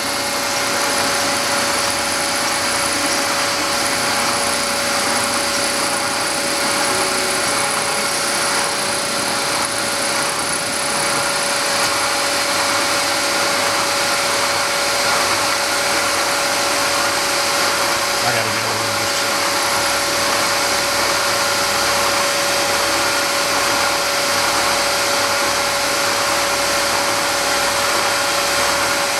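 Milling machine running steadily as it cuts a metal part, with a constant whine over a continuous mechanical noise.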